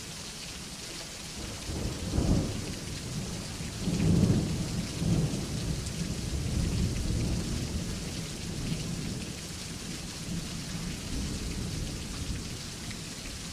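Steady rain with thunder rumbling: a first rumble about two seconds in, then a louder, long rolling peal from about four seconds that slowly fades.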